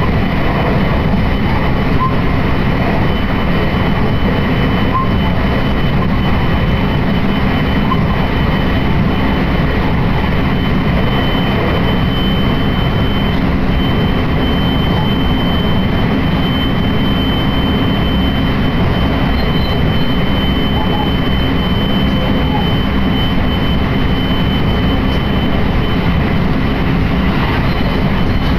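Train running along the line, heard from inside the passenger car: a steady, dense rumble of wheels and running gear, with a thin high whine that comes up about halfway through and fades a few seconds later.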